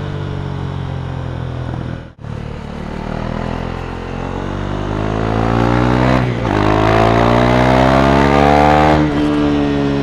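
2017 KTM Duke 390's 373 cc single-cylinder engine running through an Akrapovic exhaust. It runs steadily with a brief drop-out about two seconds in, then accelerates with rising pitch, with short dips at upshifts about six seconds and nine seconds in.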